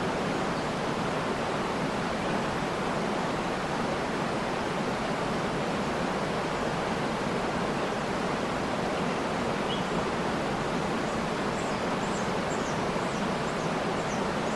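Waterfall rushing steadily, with a few faint high bird chirps in the last few seconds.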